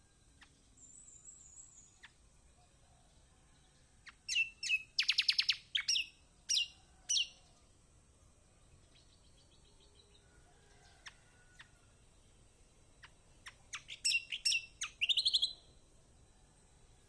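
Kecial kombok (kecial kuning), a white-eye, giving two bouts of sharp, high chattering calls, each with a fast trill. The first comes about four seconds in and the second about ten seconds later, with a few faint single notes between them.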